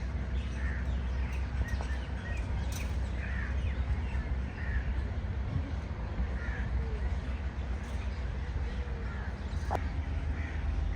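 Short animal calls repeated roughly once a second, over a steady low rumble.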